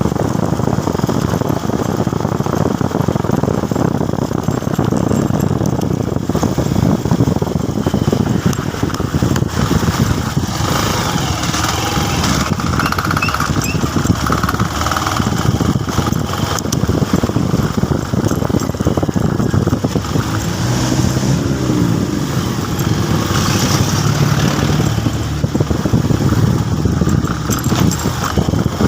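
Motorcycle being ridden, its engine running under a steady, loud rushing noise.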